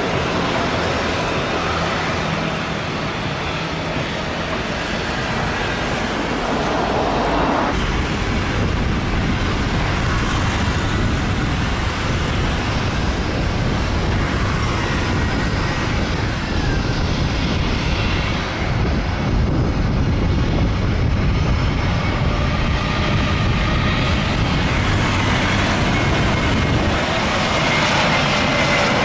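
Jet airliner engines running loud and steady. A deep rumble comes in suddenly about a quarter of the way through.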